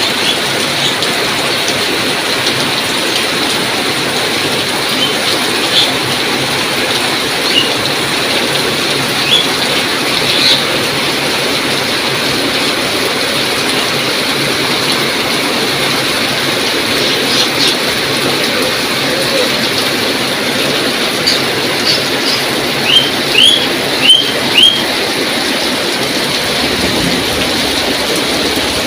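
Steady heavy rain, an even loud hiss throughout. A few short high chirps break through, with a quick run of four rising chirps about three quarters of the way in.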